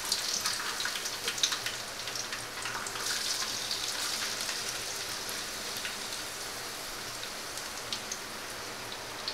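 Chopped ginger and garlic sizzling in hot coconut oil with popped mustard seeds: a steady frying crackle with scattered sharp pops, busiest in the first few seconds and slowly easing off.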